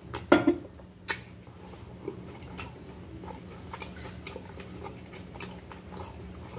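A person chewing a mouthful of grilled salami sandwich with her mouth closed: wet mouth clicks and smacks, with a louder smack about a third of a second in.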